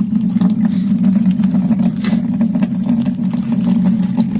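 Hot water running from a tap into a bucket, a steady low drone with light splashing.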